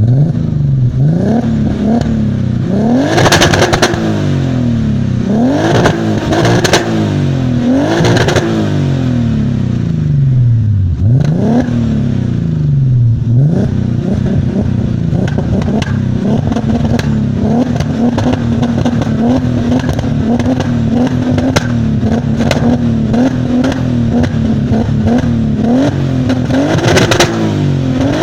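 Turbocharged VR6 engine with a stainless-steel exhaust, blipped several times in the first ten seconds, its pitch rising and falling with each rev, with crackles as the revs drop. In between it idles with small throttle blips, and it revs again near the end.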